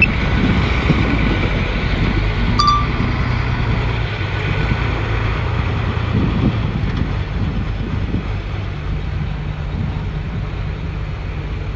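Komatsu bulldozer's diesel engine running steadily with a low drone, and a brief high chirp about two and a half seconds in.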